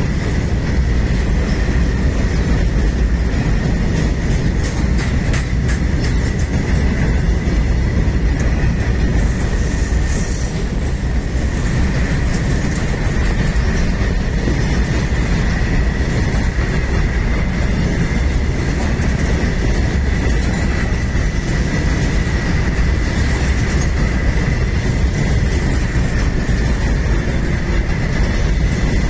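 Loaded freight train of covered BCNA wagons rolling past close by: a steady heavy rumble of steel wheels on rail, with a thin high-pitched whine throughout. Sharp clicks of wheels over rail joints cluster in the first third.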